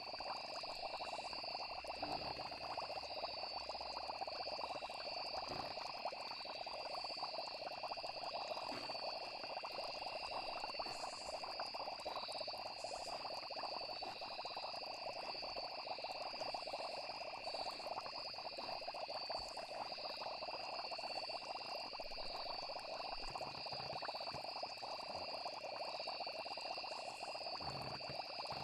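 Night chorus of frogs calling densely, with crickets or other insects trilling steadily at a high pitch.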